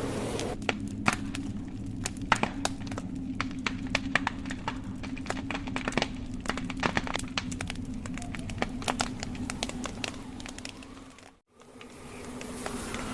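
Wood fire crackling, with many irregular sharp pops and snaps over a steady low hum. The sound fades out almost completely for a moment about eleven seconds in, then returns.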